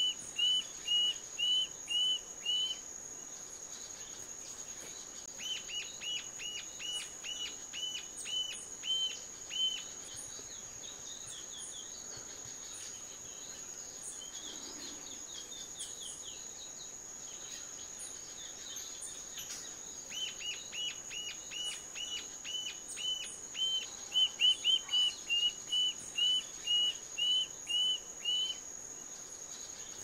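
A bird calls a series of short, sharp, slightly downslurred notes about two a second, in three bouts, over a steady high-pitched insect drone; a few fainter, higher calls come between the bouts.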